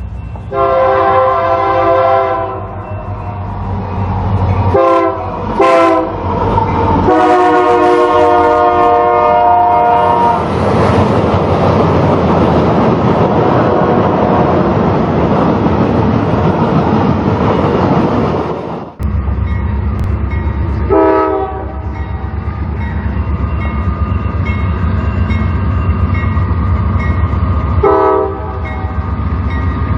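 Diesel locomotive air horn sounding several chords, the last a long one, followed by the loud rush of a passing train. After an abrupt cut, a locomotive engine rumbles steadily, with two short horn toots several seconds apart.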